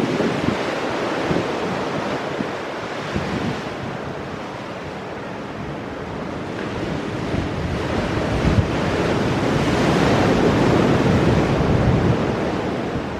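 Ocean surf breaking against rocks, a continuous wash that dips, then swells to its loudest about ten seconds in before easing. Wind buffets the microphone with a low rumble.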